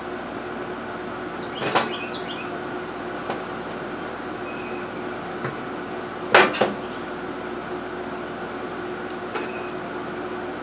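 Small metal carburetor parts and tools clicking and knocking as they are handled and fitted, a few separate taps with the loudest, a double knock, about six seconds in. A steady hum runs underneath.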